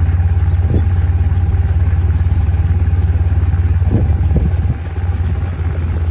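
A motor vehicle's engine running close by, a steady low drone that eases slightly about three-quarters of the way through.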